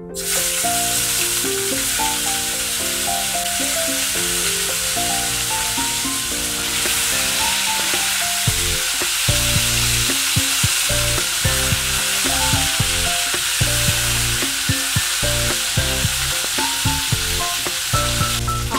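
Cauliflower florets and potato pieces sizzling loudly in hot mustard oil in a coated wok, the sizzle starting suddenly as they drop in. From about halfway, a spatula stirring them, with short knocks against the pan.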